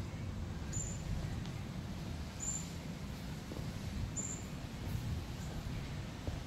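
A small bird gives three short, very high chirps about a second and a half apart, over a steady low rumble on the microphone.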